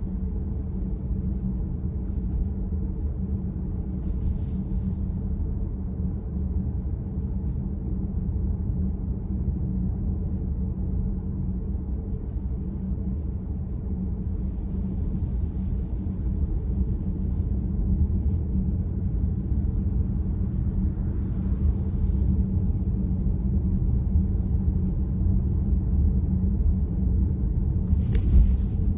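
Car driving, heard from inside: a steady low rumble of road and engine noise, with a few faint ticks and one sharper click near the end.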